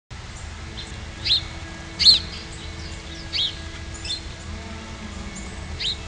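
Wild songbird giving repeated short, sharp chirps, roughly one a second, the loudest about two seconds in.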